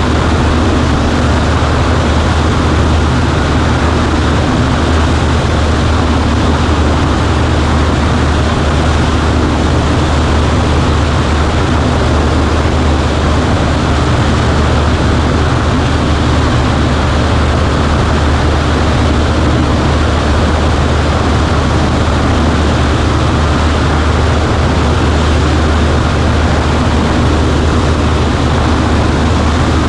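Cessna 140A's piston engine and propeller running at a steady power, a loud unbroken drone with a strong low hum.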